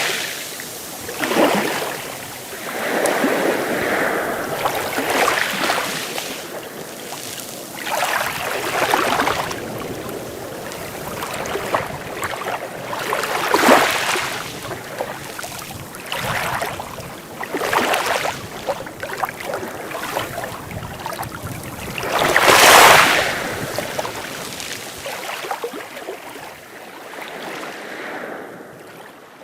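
Sea waves breaking in repeated surges of surf, a new wash every few seconds, the biggest about two-thirds of the way through. The sound fades away near the end.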